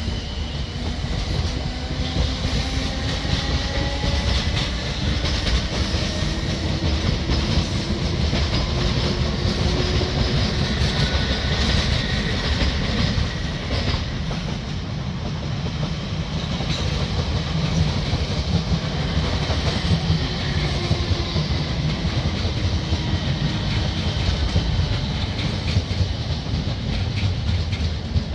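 A train running along the tracks past the platform, with the steady rumble and clatter of wheels on rail joints. A whine from the train slides in pitch during the first half.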